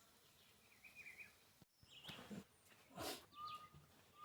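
Faint bird calls: a few short chirps, then a steady whistled note near the end, with a few light knocks in between.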